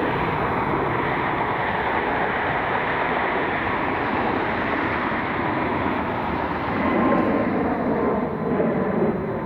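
Jet engines of a departing Frontier Airbus A320-family airliner at takeoff thrust: a steady rushing noise with a faint whine. In the second half the hiss thins out and a deeper rumble comes up.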